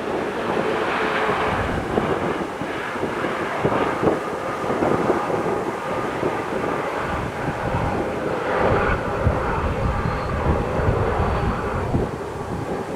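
Jet engines of a Boeing 787-9 airliner arriving, a steady rushing noise with a faint whine, with wind buffeting the microphone.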